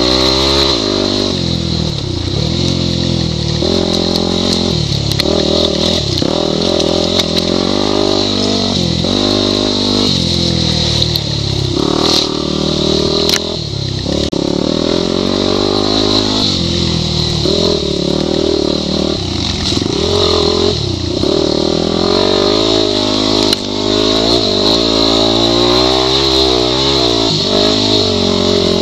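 Yamaha WR250 enduro bike's single-cylinder four-stroke engine being ridden off-road, its revs rising and falling continually with the throttle, with a few sharp knocks along the way.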